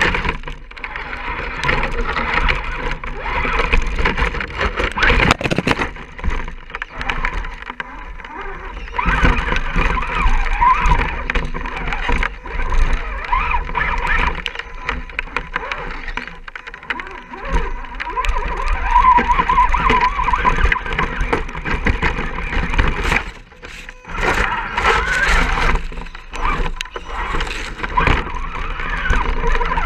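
Electric motor and geartrain of an Axial SCX10 RC crawler whining, rising and falling with the throttle as it climbs, with a short pause about 23 seconds in.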